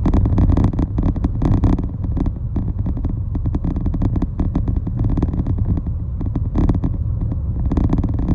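Road noise of a vehicle travelling through city traffic. A steady low rumble runs under dense, irregular rattling and buffeting.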